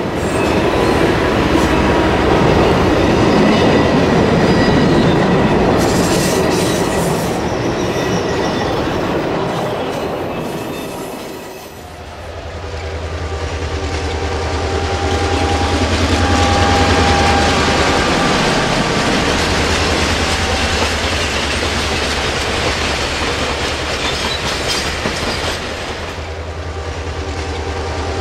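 Train rolling on rails, its wheels clickety-clacking over the rail joints. The sound fades away near the middle, and a second train comes in with a steady, pulsing low rumble.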